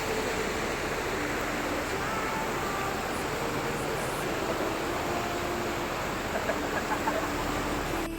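Steady rushing of a mountain river, an even noise that holds at one level.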